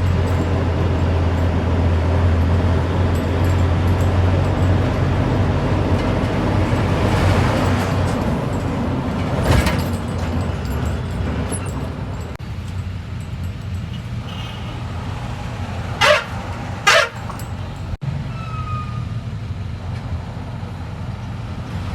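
Truck engine running steadily, with two short, loud hissing bursts about a second apart later on.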